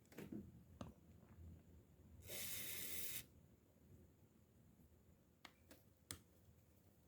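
Aerosol can spraying in one hiss of about a second, likely cleaner or lubricant on the parts of a rusted fishing reel. Light clicks and taps of small reel parts being handled before and after.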